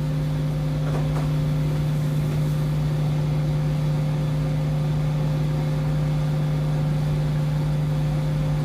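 A steady low hum made of a few held tones over a low rumble, unchanging throughout.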